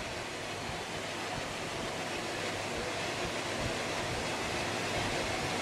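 Steady hiss of static, slowly growing a little louder, with no knock or stone strike standing out.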